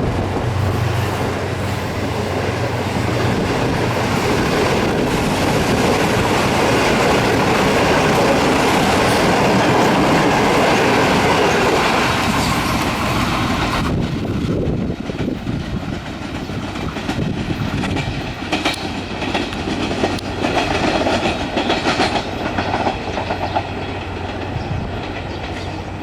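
Passenger express train passing through at speed: a dense rush of rumble and wheel noise for about the first half, then the clickety-clack of coach wheels over rail joints, with the rushing sound falling away after about fourteen seconds.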